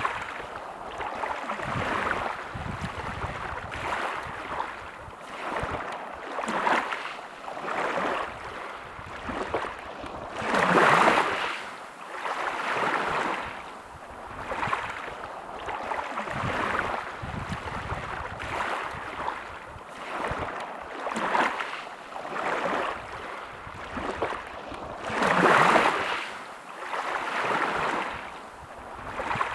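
Sea waves washing onto a beach: a steady surf noise that swells and ebbs every few seconds, with two bigger waves breaking, one about a third of the way in and one near the end.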